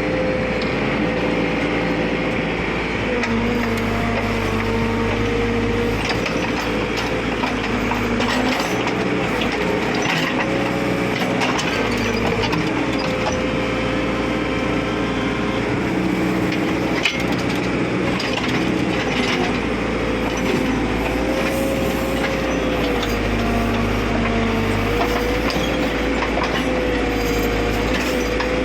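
JCB backhoe loader's engine running steadily with a wavering hum, with crunching and cracking noises over it.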